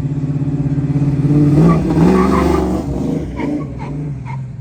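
Car engine running with a loud, fast-pulsing idle, revved up briefly around one and a half to two seconds in, then dropping back.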